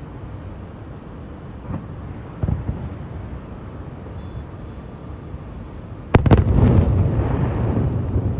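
Aerial fireworks: a steady low rumble with two small booms about two seconds in, then a sharp loud burst about six seconds in that sets off a dense, continuing run of bangs and crackle.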